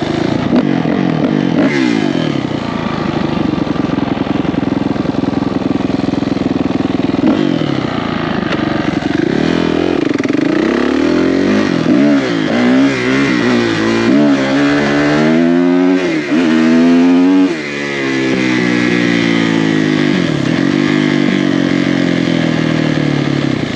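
Four-stroke dirt bike engine being ridden hard, revving up and dropping back again and again with throttle and gear changes. The revs swing up and down most quickly about halfway through.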